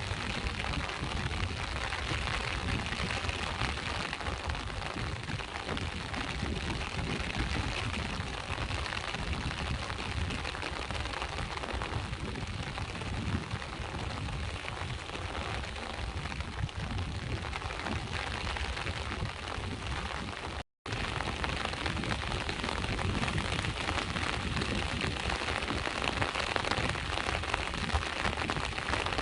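Steady rain falling, with sea waves washing in beneath it. The sound cuts out for a split second about two-thirds of the way through.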